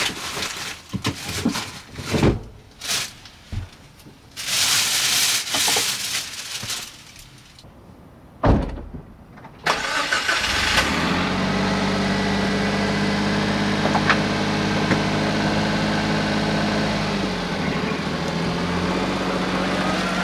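A car engine starts about halfway through and settles into a steady idle. Its pitch dips briefly and comes back near the end. Before it there are scattered knocks and rustling, with a heavier thump just before the engine starts.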